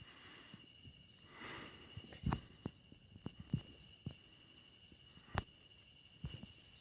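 Faint outdoor ambience: a steady high insect-like trill with scattered soft knocks and thumps, the loudest about two and five seconds in.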